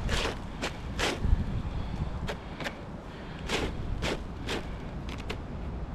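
Short, gritty scuffs against asphalt roof shingles, about nine at irregular intervals, over a low wind rumble on the microphone.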